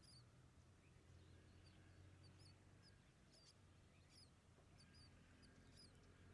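Faint, high-pitched chirps from small birds, short repeated cheeps coming two or three times a second, over a low steady hum.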